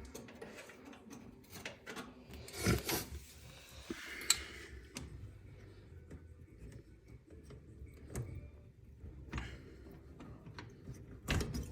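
Hands handling metal parts of a gas range: scattered clicks, light knocks and rubbing, with a louder clatter about three seconds in and again near the end.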